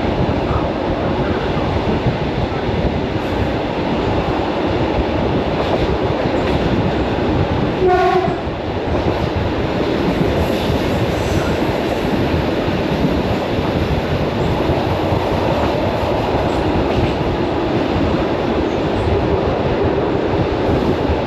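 Suburban electric train running, a steady dense rumble and rattle heard from inside the carriage. About a third of the way in there is a short horn blast.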